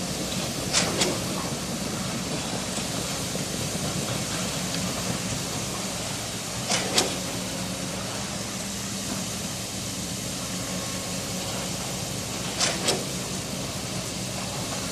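A steady machine drone with a low hum, broken three times by a pair of sharp knocks about six seconds apart.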